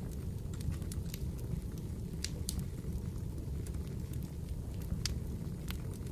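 Fireplace fire crackling: scattered sharp pops, a few louder than the rest, over a steady low rumble of burning.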